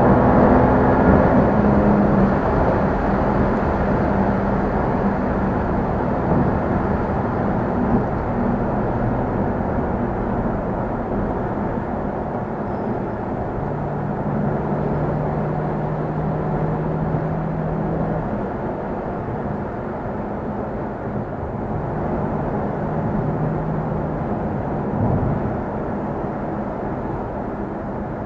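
Car's turbocharged straight-six (BMW N55) engine and road noise while driving in traffic. The engine eases off over the first few seconds, then cruises with a steady drone whose pitch steps up and down with speed.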